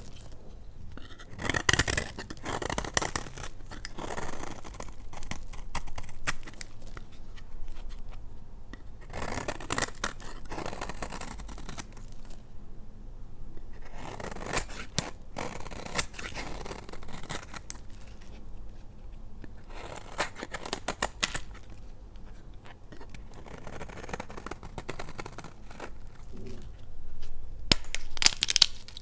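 A blade cutting through dry laundry soap in repeated strokes, each cut a crisp scraping crunch with short pauses between. The cuts grow louder near the end.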